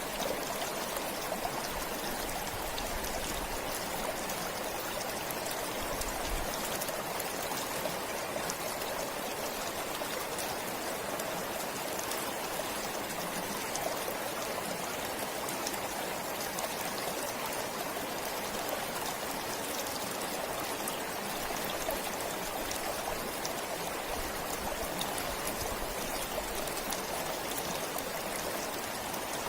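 Forest stream flowing steadily, a constant rushing babble of water with fine splashing and trickling.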